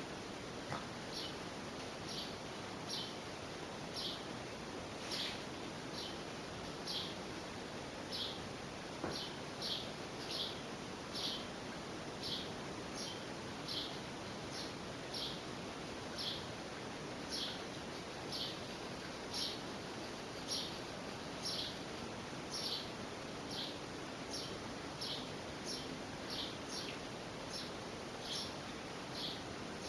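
A bird chirping over and over, short high chirps about once or twice a second, over a steady hiss.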